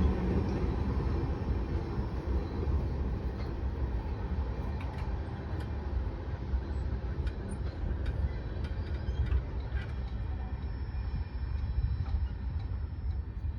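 Freight cars of a CSX manifest train rolling past a grade crossing: a steady low rumble with scattered clicks from the wheels, easing off slightly toward the end.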